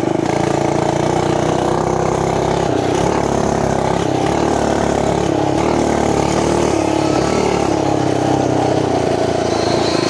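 Small gas engine of an FRP GMB 100P mini bike running under throttle while being ridden, its revs rising and falling a little.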